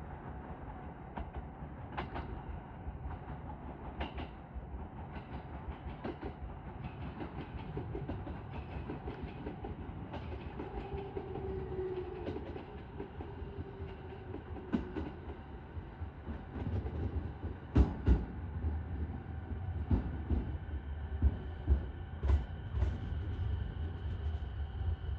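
JR East 209 series 2100 subseries electric train moving slowly along the platform, its wheels clicking over the rail joints. The clicks come about every two seconds at first, and louder clunks follow in the second half, some in quick pairs.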